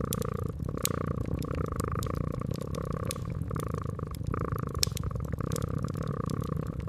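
A domestic cat purring steadily, the purr swelling and easing with its breaths, over a wood fire crackling with frequent sharp pops.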